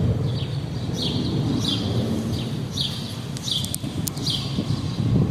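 A small bird chirping over and over, short falling chirps about twice a second, over a steady low rumble. A few sharp clicks come near the middle.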